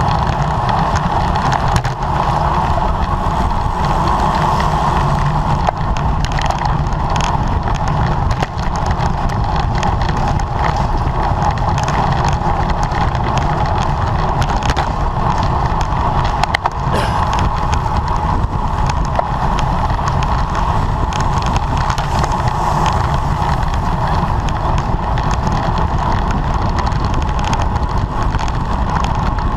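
Road bicycle riding at race speed: steady wind rush on the microphone over tyre and road noise, with faint ticks scattered through.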